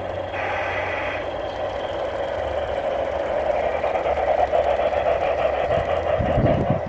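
Garden-scale model train running along its track, a steady motor whirr with rapid fine clicking that grows louder as it approaches. A low thump comes near the end.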